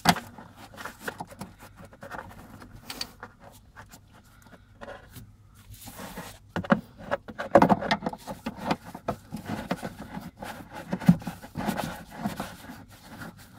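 Irregular metallic clicks, rattles and knocks of hand work with a socket wrench, threading and tightening the bolts of a Lada Vesta's rear strut, with busier bursts about halfway through and again near the end.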